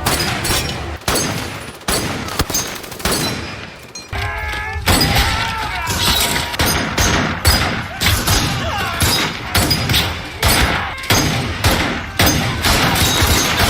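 Film battle-scene gunfire from WWII-era small arms: many overlapping shots from several guns, loud and continuous, with a brief lull about four seconds in where a short wavering pitched sound is heard before the shooting picks up again.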